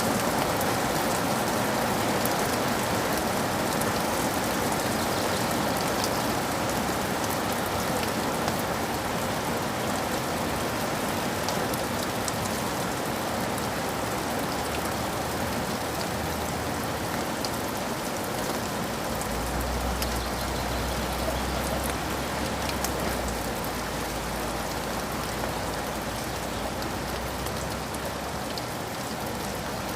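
Steady rain falling, an even hiss with scattered fine drop taps. A soft low rumble of distant thunder sits underneath for several seconds past the middle.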